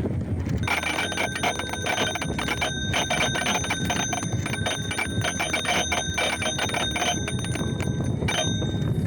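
Bicycle bell rung rapidly and continuously for about seven seconds, starting just under a second in, over a steady low rumble.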